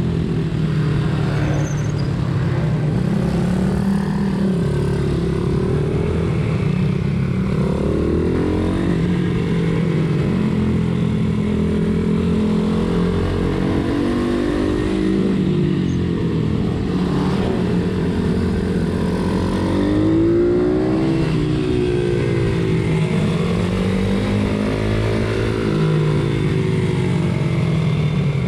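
Pit bike's single-cylinder engine racing at high revs, its pitch climbing and dropping again every couple of seconds as the rider opens and shuts the throttle.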